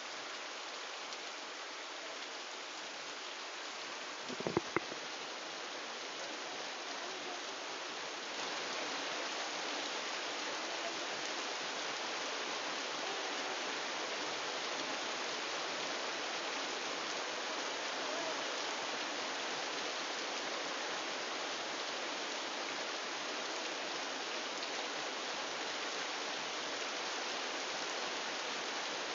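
Steady rain, getting a little louder from about eight seconds in, with a brief double knock about four seconds in.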